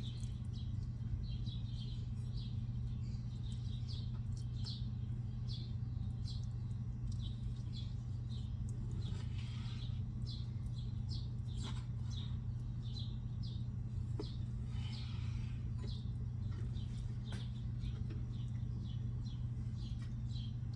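Steady low hum with a string of short high chirps, about two a second, like small bird calls, and a few faint clicks of a knife on a cutting board.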